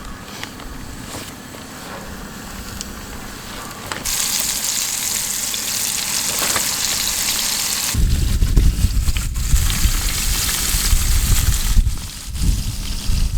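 Breaded wild turkey nuggets frying in hot oil: a steady sizzle that gets much louder about four seconds in. From about eight seconds a heavy low rumble joins it.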